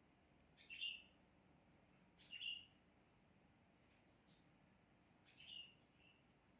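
Faint bird chirps: three short high calls at uneven gaps, with a fainter one between the second and third.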